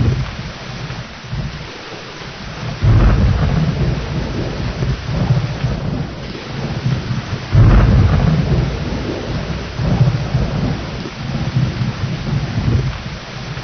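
Steady heavy rain with thunder: a deep rumble breaks in suddenly about three seconds in and another near the middle, each rolling on and fading away over a few seconds.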